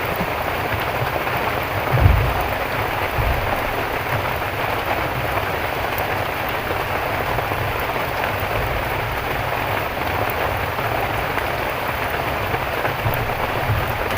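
Heavy rain falling steadily, a dense even hiss, with a brief low thump about two seconds in.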